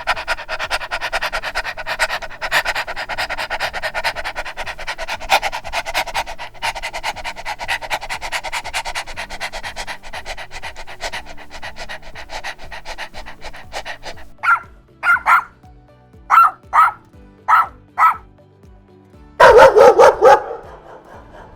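A dog barking and vocalising: a long run of rapid, rough sound for about fourteen seconds, then seven short separate barks, and a louder burst near the end.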